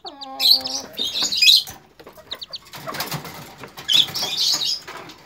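Serama chick flapping its wings, in a few rustling bursts, with faint high peeps. A short falling voice-like sound comes right at the start.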